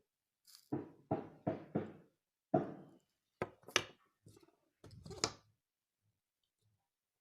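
A series of sharp knocks and taps on a hard surface, about ten in all: four evenly spaced knocks under a second in, then more at irregular spacing, stopping after about five and a half seconds.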